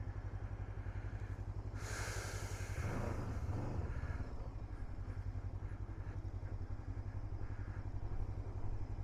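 Adventure motorcycle engine running at low, steady revs with an even pulse. A short rush of noise, louder and reaching higher, comes about two seconds in.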